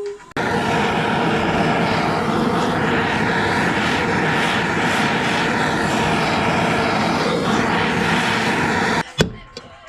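A heating tool runs with a loud, steady blowing noise for about nine seconds, warming the Ariel motorcycle's crankcase so the new crankshaft bush can be knocked in. It cuts off suddenly near the end, followed by a couple of sharp taps.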